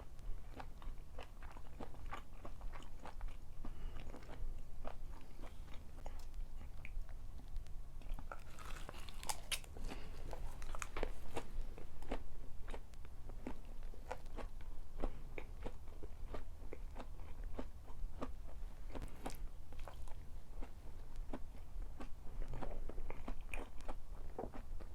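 Close-miked chewing and biting of food, with many small crisp crunches that come thicker and louder for a few seconds about a third of the way in and again later.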